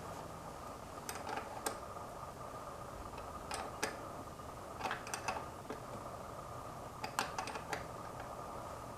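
Scattered light clicks and taps in small clusters, typical of hand tools and metal parts being handled while fitting a tractor battery and its cables. They sit over a steady background hum.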